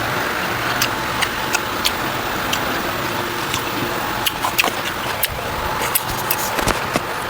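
Close-up eating sounds: irregular wet clicks and smacks of chewing and mouth movements, over a steady background hum and hiss.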